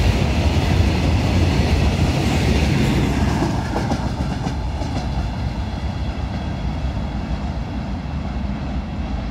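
Freight train wagons rolling past close by, their wheels clattering over the rail joints with a heavy low rumble. The clatter eases about three and a half seconds in as the last wagon goes by, and the rumble fades as the train moves away.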